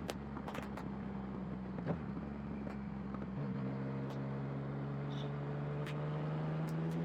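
Motorcycle engine running while riding; its pitch drops about three and a half seconds in, then climbs slowly. Short clicks are scattered through it.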